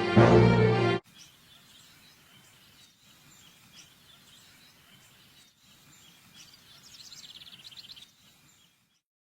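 Theme music cuts off abruptly about a second in, giving way to faint outdoor ambience with scattered bird chirps. A rapid high chirping trill comes shortly before the end.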